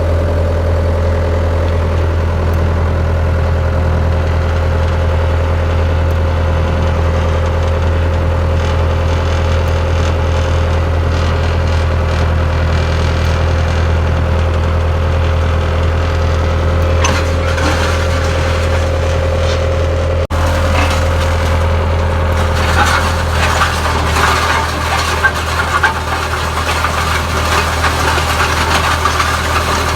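Skid steer engine running steadily. About two-thirds of the way in, a rougher, noisier sound joins the engine.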